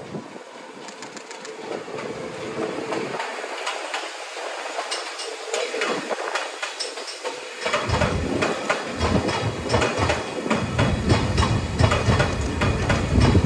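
JR East GV-E197 series diesel-electric track maintenance train and its ballast hopper cars passing, wheels clicking over the rail joints. The clicks come faster and louder as the train draws level, with a deep rumble joining about eight seconds in.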